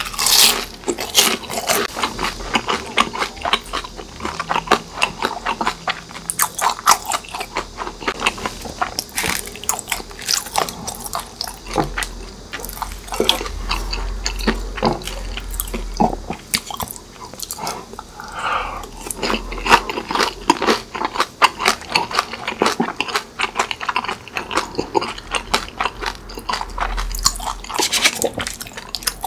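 Close-miked crunching and chewing of crispy fried food. It opens with a loud bite into fried chicken skin, then dense, irregular crisp crunches keep on with the chewing.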